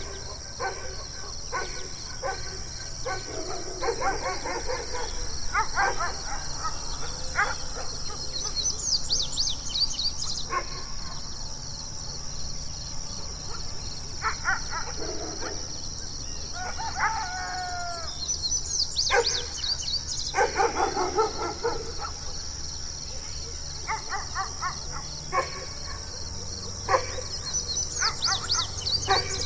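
Big guard dogs barking in scattered bursts, with one longer drawn-out call that falls in pitch about seventeen seconds in. A steady high-pitched drone with chirps runs underneath.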